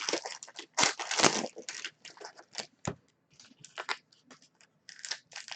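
Packaging being handled: irregular crinkling and crackling with scattered sharp clicks, busiest in the first second or so and thinning out after that.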